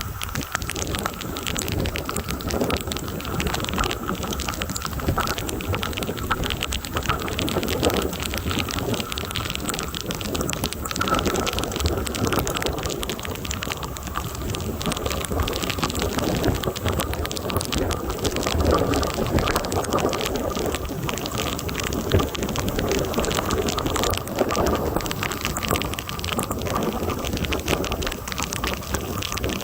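Heavy thunderstorm rain pouring down, a dense steady patter of drops striking surfaces close to the microphone, with a low rumble of wind underneath.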